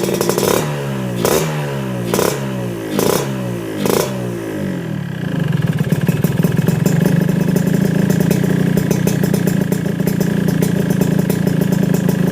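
Yamaha RX King 135 cc two-stroke engine running through a Peak Racing underbelly aftermarket exhaust. It is blipped about four times in quick succession, each rev falling back in pitch, then held at a steady, louder run.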